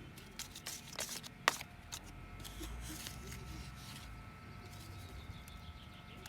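Sand being scraped and scooped into a plastic sand mold. A handful of short scratchy scrapes come in the first second and a half, then it goes quieter.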